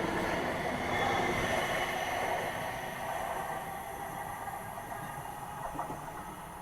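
Link light rail train running past on the track, its rumble fading steadily as it moves away.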